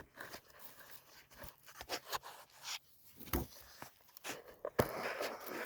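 Hand saw working on an old wooden board at a pre-scored line: scattered knocks and short rasping strokes, becoming a denser rasp near the end.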